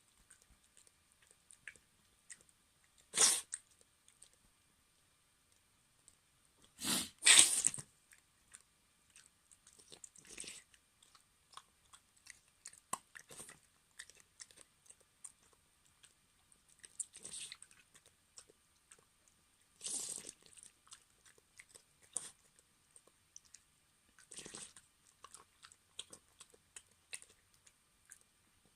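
A Maltese dog eating: irregular chewing and crunching, with a few louder, sharper bursts, the loudest around seven seconds in.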